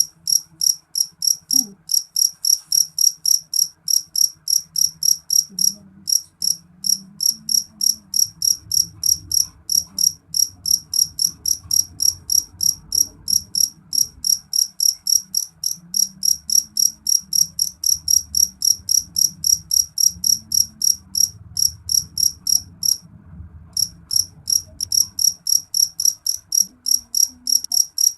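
Field crickets chirping in a steady, even rhythm of short, high chirps, about four a second, with one brief pause late on. A faint low rumble sits underneath.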